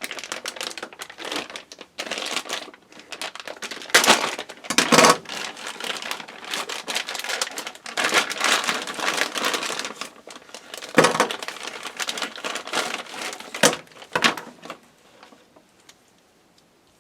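A plastic bag crinkling and rustling as it is handled, in irregular bursts with a few louder crackles. It stops near the end. The bag apparently holds the power supply's modular SATA cables.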